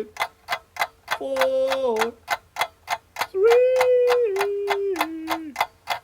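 Steady clock-like ticking, about three ticks a second, marking a countdown timer.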